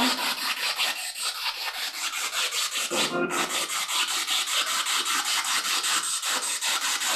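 Spirit box sweeping through radio stations: static chopped into a fast, even stutter of hiss, with a brief snatch of radio sound about three seconds in.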